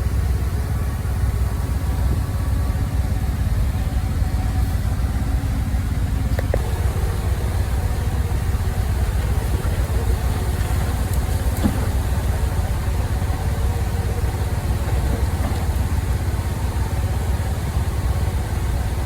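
Engine of heavy earthmoving machinery running steadily with an even low rumble, with a couple of faint clicks partway through.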